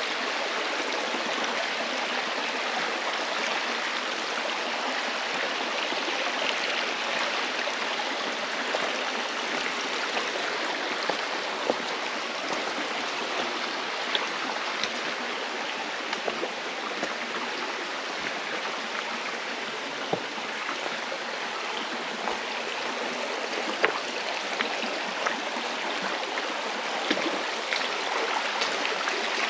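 Mountain stream rushing steadily over rocks in a gorge, with a few brief clicks now and then.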